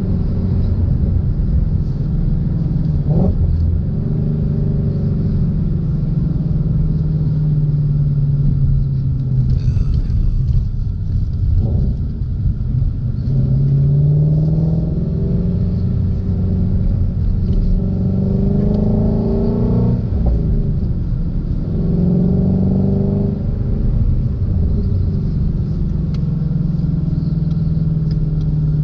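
A 2016 Ford Shelby GT350's 5.2-litre flat-plane-crank V8 running under way. Its pitch rises several times as the car accelerates and drops back in between, over a steady low rumble.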